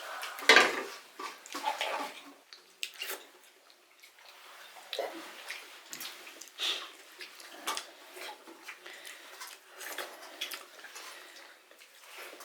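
Sounds of eating a meal: food handled on a plate and chewed, heard as irregular wet clicks and scrapes with a few sharper clinks, the loudest about half a second in.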